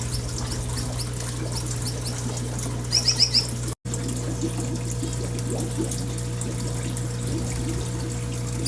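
Finches in an indoor aviary giving a quick run of four or five short, high chirps about three seconds in, over a steady low hum and rushing hiss.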